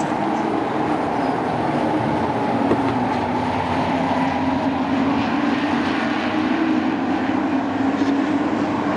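Engines of a field of short-track sport trucks running at racing speed, blending into one steady, continuous drone.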